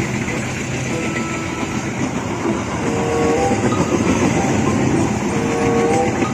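Train passing with its wheels clattering over the rails, and short steady tones sounding over the rolling noise from a few seconds in.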